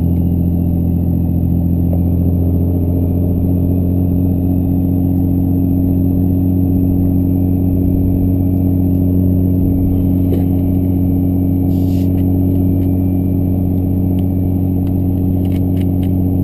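Compound-turbocharged 2007 5.9 Cummins diesel pickup running steadily at an even engine speed, a constant deep drone while cruising in fifth gear.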